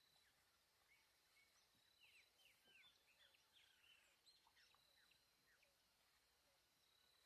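Near silence with faint bird chirps: a flurry of short, quick falling chirps about two to five seconds in, over a thin steady high tone.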